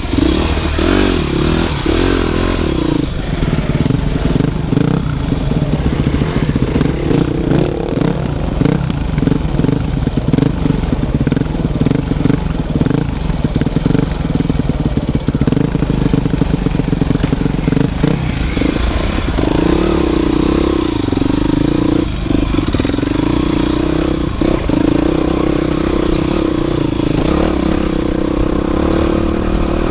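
Dirt bike engine running while being ridden off-road, its note shifting with the throttle. Many short knocks and rattles come through in the middle stretch, and the engine settles into a steadier note about two-thirds of the way through.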